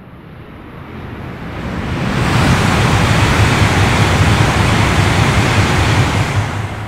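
E5 series Shinkansen passing through a station at high speed without stopping. A rushing noise with a low rumble builds over the first two seconds as it approaches, stays loud as the cars go by, and eases off near the end as the tail car passes.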